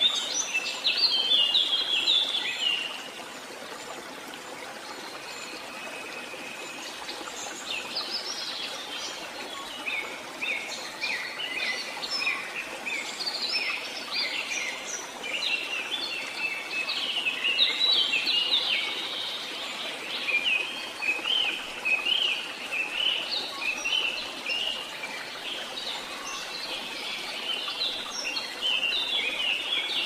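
Small birds chirping and twittering in quick runs of short high notes, over a steady background hiss.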